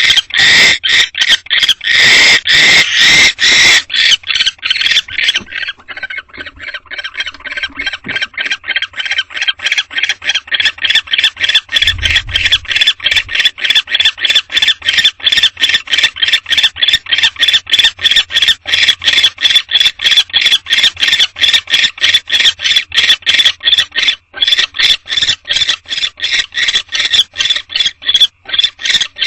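Barn owl calling in a long run of short, squeaky notes repeated about four times a second, louder for the first few seconds.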